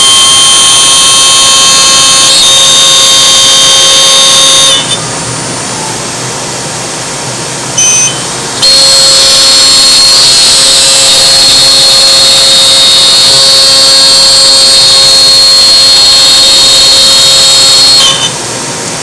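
CNC router spindle running with a loud, steady high whine. It steps down to a quieter hum about five seconds in, comes back briefly, then returns to full loudness a few seconds later and drops again near the end.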